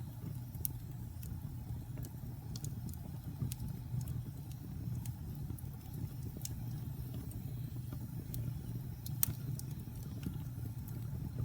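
Wood fire burning in a fireplace: scattered sharp crackles and pops from the logs over a steady low rumble, with the loudest pop about nine seconds in.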